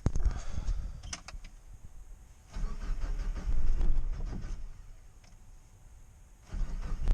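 1986 Mazda B2000's four-cylinder engine being cranked on the starter in two stretches, struggling to fire, then catching and running near the end: a hard start.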